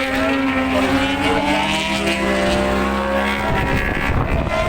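Racing motorcycle engines running as superbikes pass, their notes gliding up and down with a rougher, changing stretch near the end.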